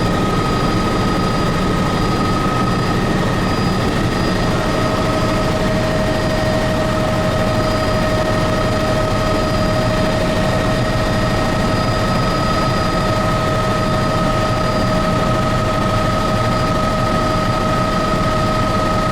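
Turbine helicopter in steady cruising flight, heard from inside the cabin: an even rush of rotor and engine noise with a steady whine on top.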